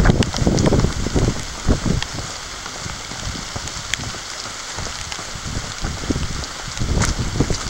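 Steady rain falling, with a few sharp ticks of drops striking close by. Low thuds come in the first couple of seconds and again briefly near the end.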